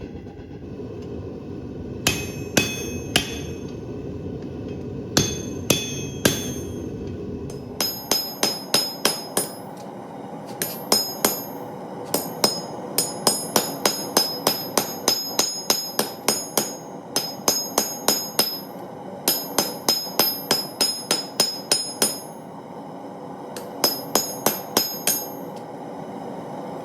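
Hammer blows on hot steel over an anvil, each strike ringing high: a few scattered groups at first, then fast runs of about three blows a second broken by short pauses. A low rushing noise under the first few blows stops about eight seconds in.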